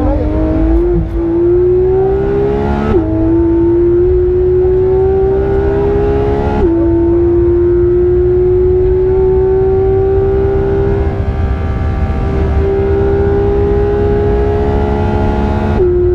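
Porsche 991.2 GT3 RS flat-six under hard acceleration, its pitch climbing steadily through the gears. The revs drop sharply at upshifts about 3 seconds in, about 6.5 seconds in and again near the end, over a low road rumble.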